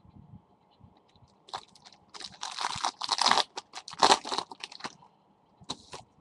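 Trading cards being handled and shuffled, in irregular bursts of rustling and crinkling from about a second and a half in until about five seconds, with one short burst near the end.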